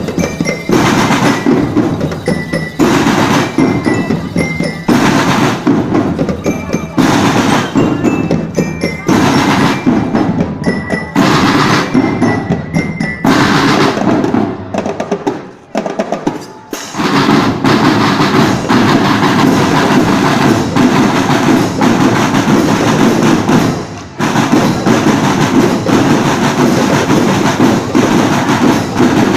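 Drumband playing: marching drums with a glockenspiel (bell lyra) sounding high melody notes over strong beats about once a second. About 15 seconds in the playing briefly drops, then the drums come back in a dense, steady pattern.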